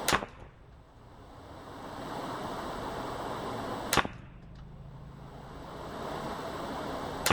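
Three unsuppressed shots from a Ruger LVT semi-automatic .22 LR rifle firing standard-velocity rounds, spaced roughly three and a half seconds apart. A steady hiss runs between the shots.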